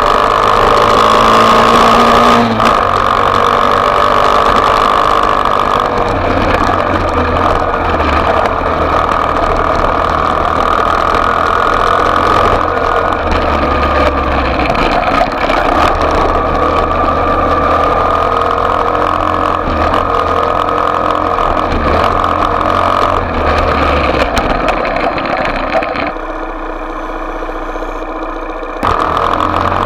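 Small off-road motorcycle engine running hard, its pitch rising in the first couple of seconds, then holding steady, with a brief drop in level a few seconds before the end.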